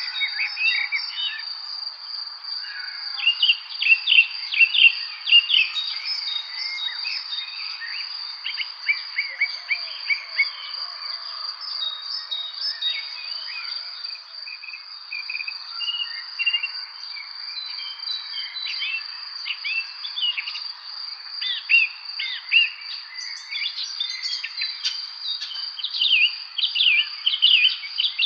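Many songbirds chirping and singing in quick, short calls, busiest near the start and again near the end, over a steady high-pitched insect trill that never stops.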